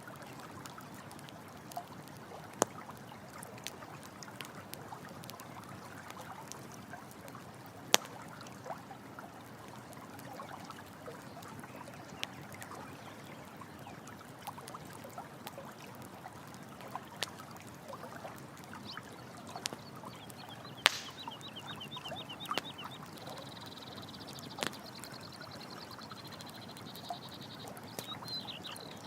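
Running water with the sharp crackles and pops of a campfire. In the last third a high, rapidly pulsed trilling call joins in.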